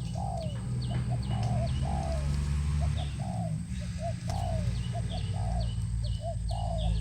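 Spotted doves cooing in a repeating phrase of short notes and longer drawn-out notes, with a small bird chirping in quick high notes over a steady low rumble.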